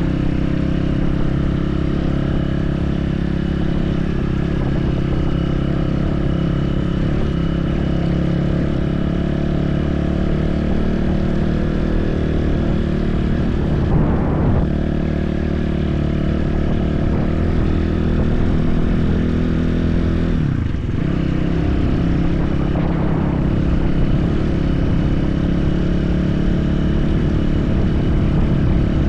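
BSE enduro motorcycle engine running steadily while riding, its note dipping briefly a couple of times, about halfway through and again about two-thirds of the way in, as the throttle eases or a gear changes.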